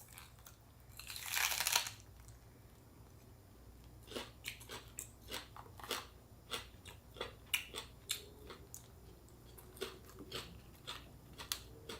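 Close-up chewing and crunching of fresh spring rolls with crisp lettuce, cucumber and bean sprouts: soft, irregular crunches, a few a second, through the second half. A short rustling burst comes about a second in.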